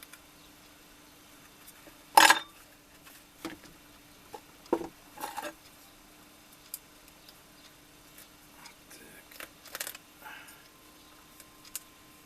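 Metal hand tools and the sandal being handled on a workbench while old stitching is picked out: scattered clicks and short clatters, the loudest about two seconds in, over a faint steady hum.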